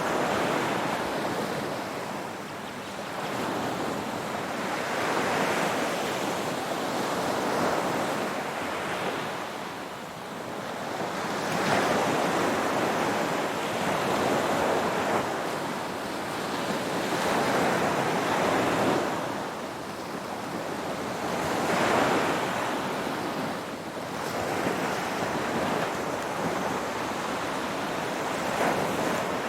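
Ocean waves breaking and washing onto a shore, a steady rush that swells and eases every few seconds.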